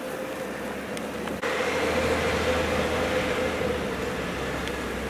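Snowplow truck's engine running in a steady drone, with a held hum under a noisy hiss; it gets suddenly louder a little over a second in.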